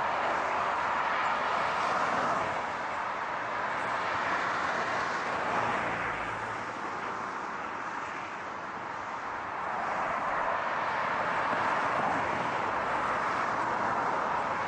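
A car on the road: a steady rush of tyre and road noise. It dips a little about seven seconds in and swells again near ten seconds.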